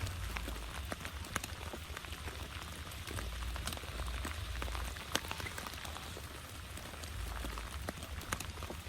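Heavy rain falling steadily, with many single drops striking close by as distinct taps, over a low rumble that swells and fades a few times.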